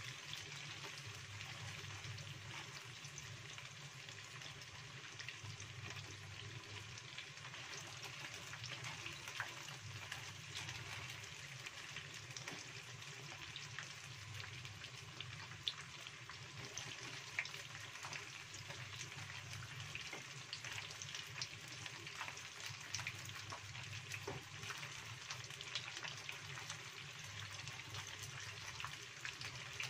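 Tapioca-battered tofu pieces sizzling in hot oil in a frying pan, turned now and then with a wooden spoon, a couple of sharp ticks standing out midway. The tofu is being fried until the coating turns golden and crisp.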